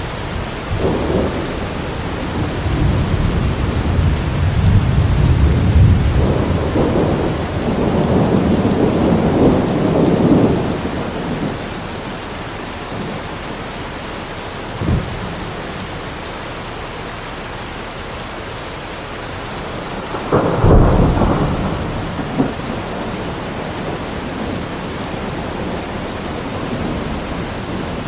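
Steady heavy rain with thunder: long low rumbles through the first ten seconds or so, a short sharp clap near the middle, and a loud crack of thunder about twenty seconds in that rumbles away.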